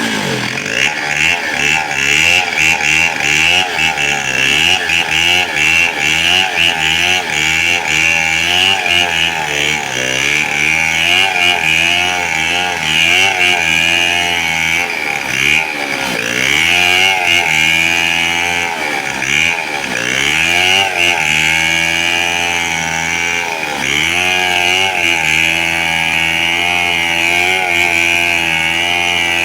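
Two-stroke chainsaw running hard while cutting wood, its engine pitch sagging and rising with the load. It slows briefly twice a little past the middle.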